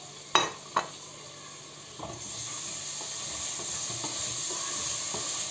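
Two sharp knocks, then from about two seconds in, chopped onion and boiled meat sizzling in olive oil in a pot as a spoon stirs them. The sizzle grows gradually louder.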